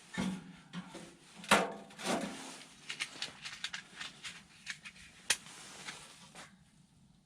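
Irregular knocks, clicks and light clatter of hands working at a small wood-burning tent stove, with its metal door and fuel briquettes being handled. Two sharper knocks stand out, about a second and a half in and about five seconds in.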